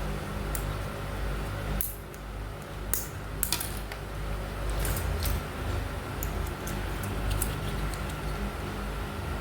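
Scissors snipping through a plastic teaspoon: a series of sharp irregular clicks and cracks as the plastic is cut.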